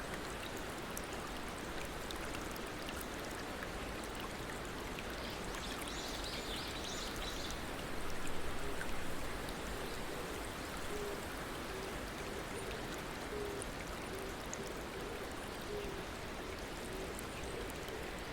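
Water flowing steadily over stones, with a short spell of high bird chirps about a third of the way in.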